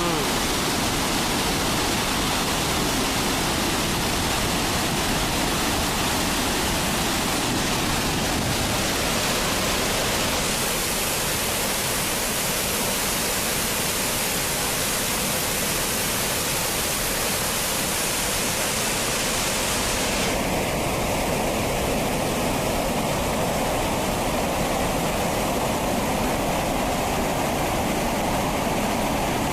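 Steady rushing of a large waterfall, Chitrakoot Falls, with an even, unbroken level; its tone shifts brighter about ten seconds in and duller about twenty seconds in.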